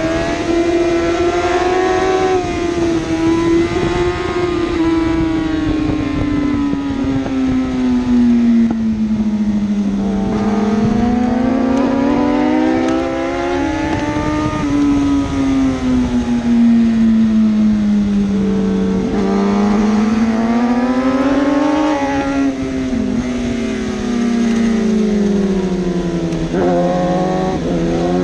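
1000cc superbike engine at racing speed, its pitch climbing under acceleration and sinking as it slows, in long sweeps every few seconds with a few sudden drops at gear changes.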